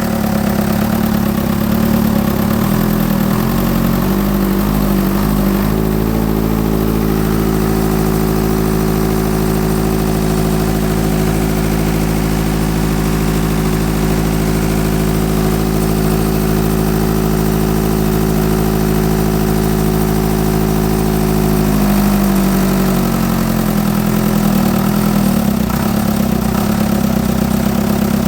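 Old Ford diesel tractor engine running steadily, its injector pump freshly rebuilt. Its note shifts about five seconds in, holds steady, then shifts back at about 22 seconds.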